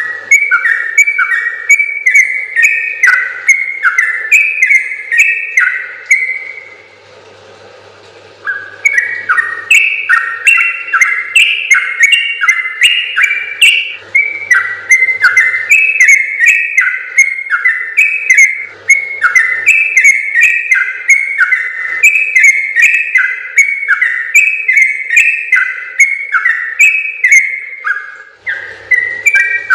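Yellow-vented bulbul (trucukan) singing a long, rapid run of bubbly whistled notes. The song breaks off for about two seconds near the start, then runs on without pause.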